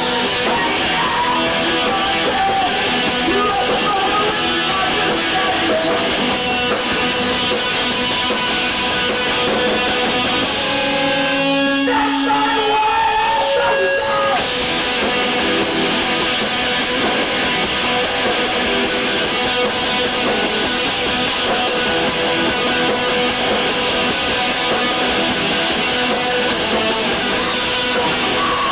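Emo rock band playing live: loud electric guitars and drums. About ten seconds in the drums drop out for a few seconds, leaving held guitar notes ringing, before the full band comes back in.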